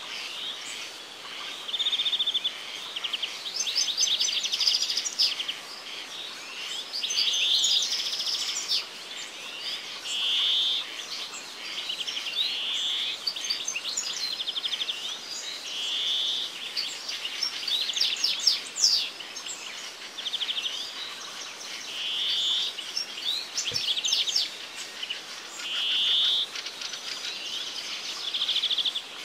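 Birds chirping and singing: a short call repeated every two to three seconds, with quicker trills and twitters between.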